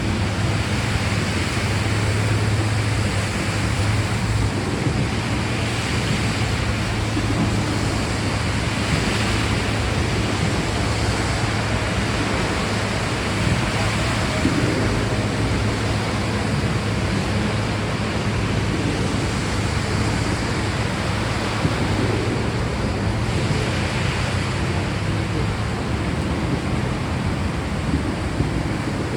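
Steady rain, an even hiss with a constant low rumble underneath.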